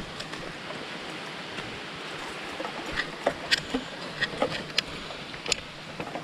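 Small waterfall running with a weak flow, a steady rush of falling water, with scattered sharp clicks over it.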